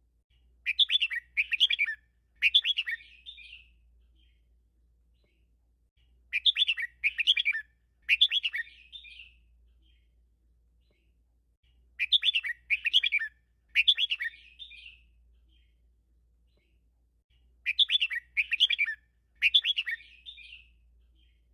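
Red-whiskered bulbul singing a short repeated phrase four times, about every six seconds: a quick run of three notes ending in a trailing warble. It is the 'teacher' song of the double (bêl) style that keepers play to caged bulbuls.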